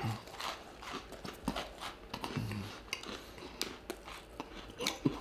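A person chewing a mouthful of crunchy Oreo cookie: a run of small, irregular crunching clicks, with a brief low hum from the voice about halfway through.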